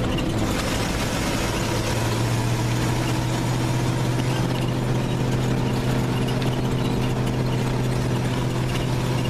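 Vintage dump truck's engine running at a steady speed under way on the road, an even drone holding the same pitch throughout.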